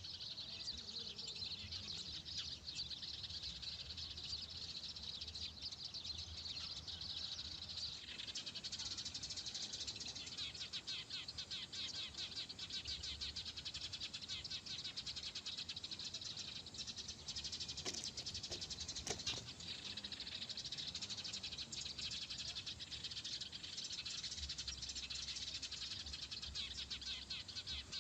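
Dense, continuous high-pitched chirping from many small animals, made of fast overlapping pulses. Two short sharp clicks come about two-thirds of the way through.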